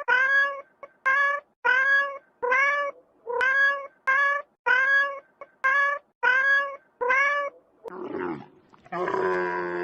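A cat meowing in a fast series of about eleven short, high, rising meows, a little more than one a second. Near the end a deeper, harsher call from a different, larger animal takes over.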